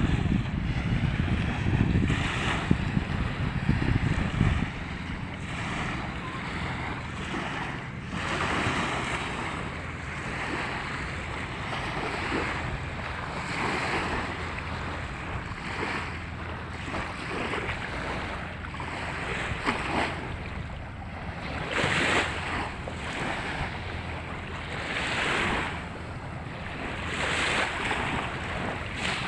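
Wind buffeting the microphone with a low rumble for the first four or five seconds, then small river waves washing onto the beach again and again under a steady wind.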